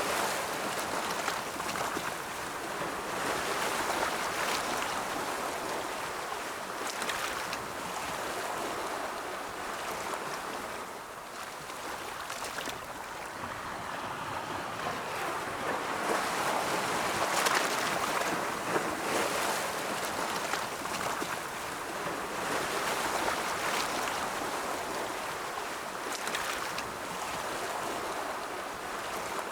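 Ocean waves washing onto a shore, a continuous rush of surf that swells and recedes every few seconds.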